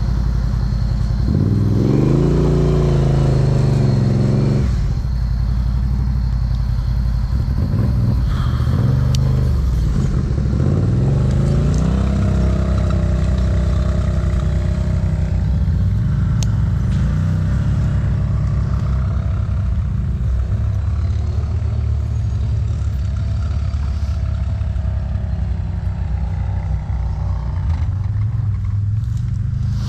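ATV engine revving up twice in the first dozen seconds, then running at a steady speed with the pitch wavering a little.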